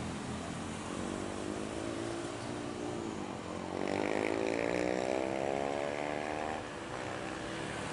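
Small motorcycle engine accelerating past, its pitch rising, dropping at a gear change about three seconds in, then rising again louder before it fades.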